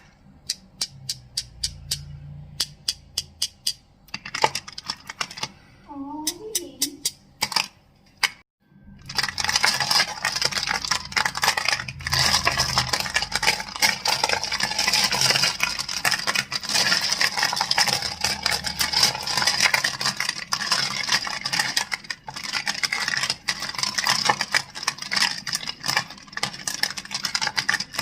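Crystals tapped and clacked with separate sharp clicks, several a second. About nine seconds in, after a brief pause, the sound turns into fast, dense clicking and scratching.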